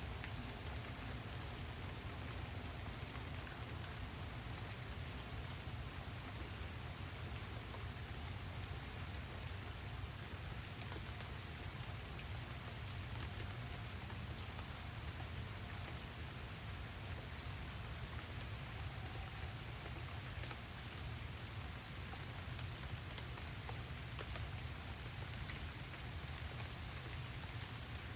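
Steady rain falling, an even hiss with faint scattered drop ticks, holding at one level throughout with no thunder.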